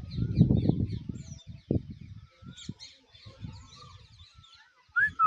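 Pet parrot chirping and chattering in short high calls, with a clear whistled note near the end that rises and then falls. Irregular low rumbling and thumps, loudest in the first second.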